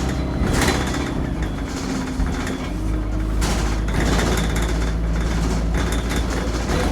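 Bus engine running, heard from the seats right above it, with a steady drone that drops in pitch about halfway through and bursts of hissing rattle roughly every three seconds. The engine sounds awful and squeals, which riders take for a fault; they also smell smoke.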